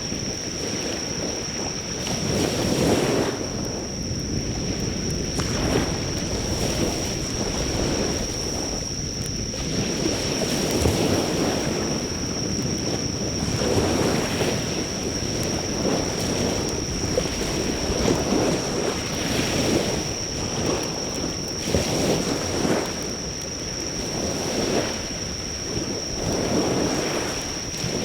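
Waves breaking on the shore, swelling and falling back every few seconds, with insects calling in a steady high unbroken drone. A few faint crackles come from a driftwood campfire, mostly buried under the surf.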